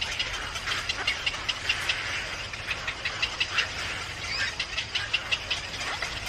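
Small birds chirping: rapid, short, high-pitched calls, several a second, over a steady background hiss.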